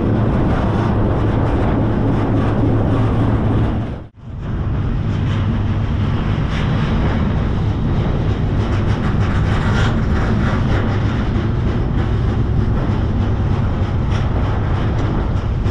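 Freight train in motion, heard from aboard a car: a loud, steady rumble and rattle of the rolling train. The sound drops out for a moment about four seconds in, then carries on as before.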